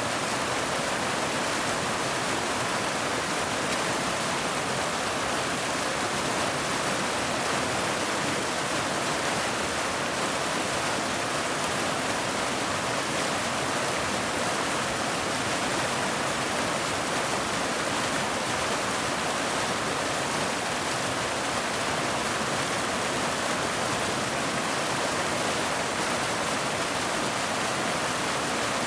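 Steady heavy rain: an even, unbroken hiss with no single drops, thunder or other events standing out.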